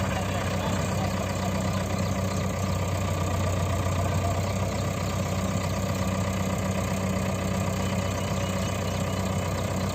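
A heavy diesel engine of farm or earthmoving machinery idling steadily, with an even low hum that doesn't rise or fall.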